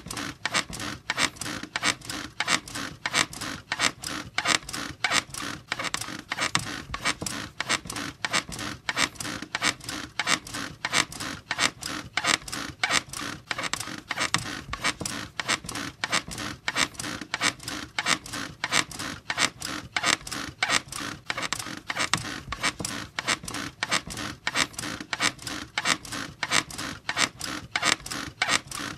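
Squeaky bed creaking over and over in a fast, even rhythm, as if someone is rocking or bouncing on it.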